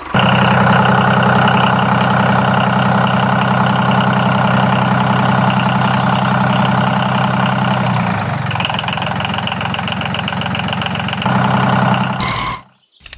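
Mini tractor engine running steadily at idle, a loud even drone. Its low tone thins about eight seconds in, comes back fuller near the end, then cuts off.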